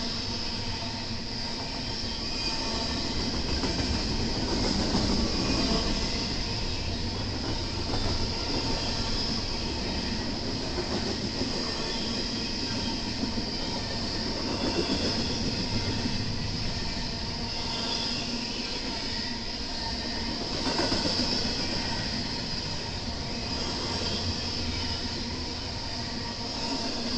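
BNSF intermodal freight train rolling past, steel wheels running on the rails, swelling and easing in loudness every few seconds as the cars go by.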